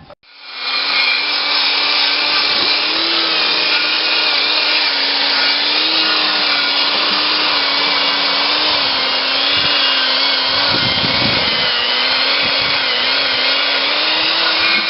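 1953 Massey-Harris small tractor's engine running steadily and loudly, with a slightly wavering hum over it.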